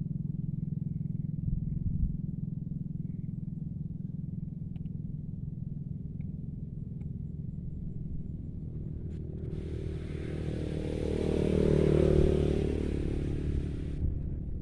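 A motor vehicle passing by, growing louder to a peak about twelve seconds in and then fading, over a steady low engine hum.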